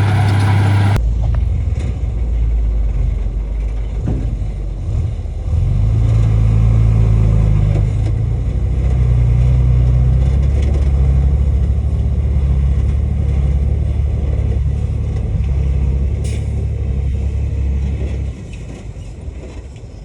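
Diesel engine of heavy earthmoving machinery running under load, a steady deep drone whose pitch steps up about six seconds in. The level falls away near the end.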